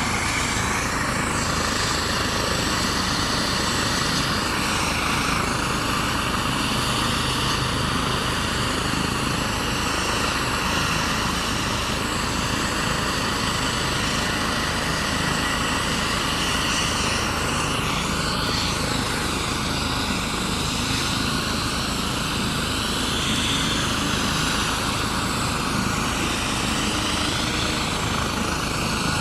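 Air-ambulance helicopter running on the ground with its rotor turning, a steady, unchanging noise.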